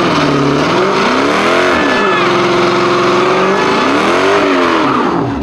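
Car engine revving hard, its pitch rising and falling several times and holding steady for about a second in the middle, over a loud hiss of tyre noise, as when a car is doing stunts.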